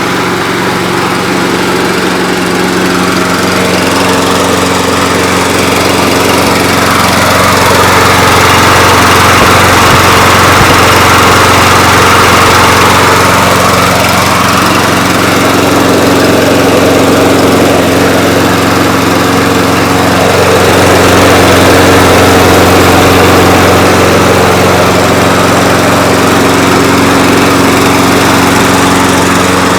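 Yard Man 979 walk-behind mower's Briggs & Stratton Intek overhead-valve engine running steadily at speed, freshly started, with slight swells in loudness.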